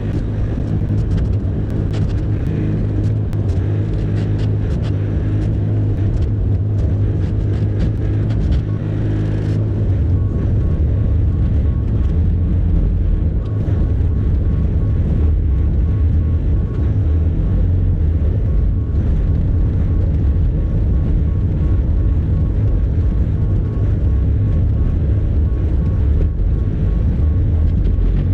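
Bobcat E50 compact excavator's diesel engine running steadily while it clears snow. About a third of the way in, the sound gets heavier and a thin steady whine comes in above it, as the machine takes on more load.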